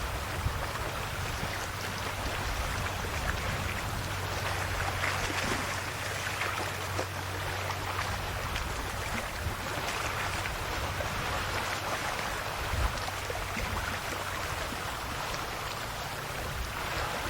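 Calm sea waves washing gently in small surges every few seconds, with a steady low hum underneath.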